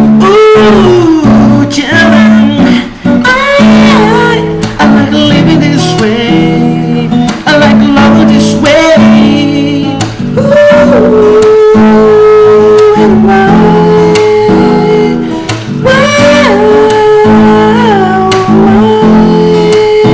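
Acoustic guitar accompaniment with a voice singing long, held and sliding wordless notes, the closing ad-libs of a voice-and-guitar song.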